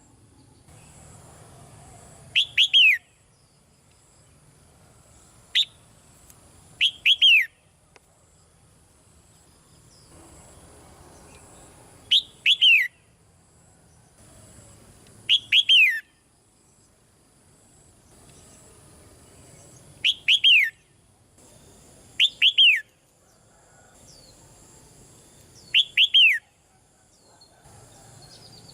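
Red-whiskered bulbul calling: short, bright, downward-sliding chirps in quick groups of two or three, repeated every few seconds.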